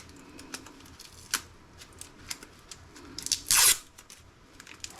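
Small laptop parts being handled during disassembly: scattered light clicks and rustles, with one short harsh rasp about three and a half seconds in, like plastic or film being torn or scraped.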